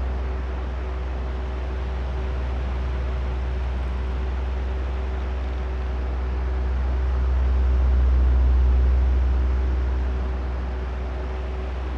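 Oscillating electric fan running: a steady low motor hum under the rush of moving air. It swells louder about eight seconds in and eases off again as the fan head turns back and forth.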